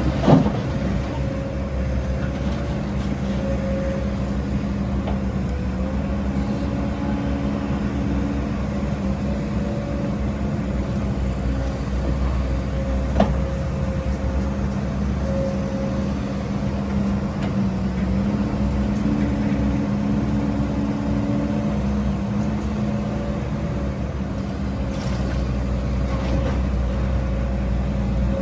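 Heavy diesel earthmoving machinery running steadily, with small shifts in engine pitch. Two sharp knocks, one just after the start and one about halfway through.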